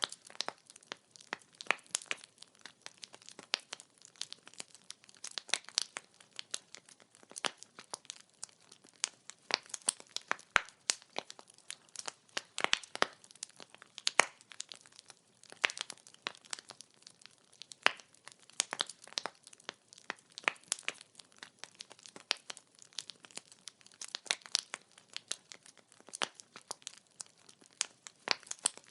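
Wood fire crackling: burning firewood gives off many irregular sharp pops and snaps over a faint hiss.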